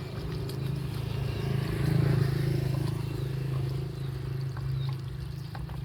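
A motor or engine running steadily with a low drone, growing slightly louder about two seconds in, with a few faint clicks over it.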